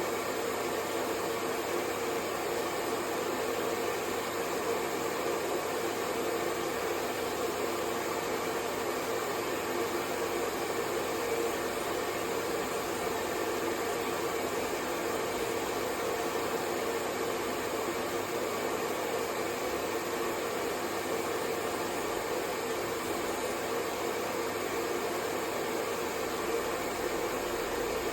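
Hair dryer running steadily: an even rush of blown air with a steady motor hum, unchanging throughout.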